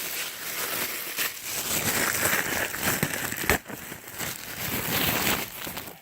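Packaging crinkling and rustling as an air filter is unwrapped and handled, with one sharp click about three and a half seconds in.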